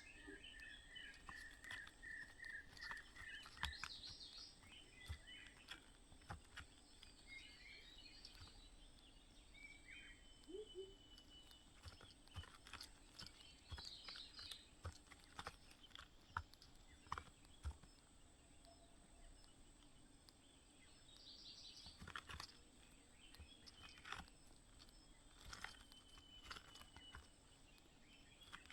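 Faint small-bird calls at a nest: a quick series of short chirps in the first few seconds, then scattered thin whistles and chirps over light clicks and rustling.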